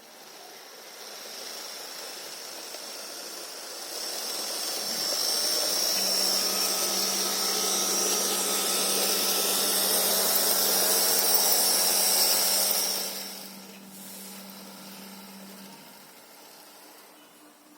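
HO-scale model of a Soviet TE3 diesel locomotive running along the track, its small electric motor and wheels making a steady whirring hiss. The sound grows louder, holds for several seconds, then drops off about thirteen seconds in.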